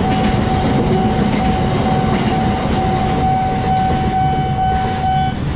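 Sawunggalih passenger train carriages rushing through a level crossing, with wheels clattering on the rails. Under this the crossing's warning alarm sounds a steady tone, and a second, higher tone joins it partway through; both stop just before the end.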